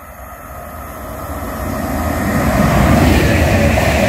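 Greater Anglia electric multiple unit passing at speed. Its wheel-on-rail rumble and rushing noise grow steadily louder as it approaches, reaching full loudness in the last second or so as the carriages sweep past close by.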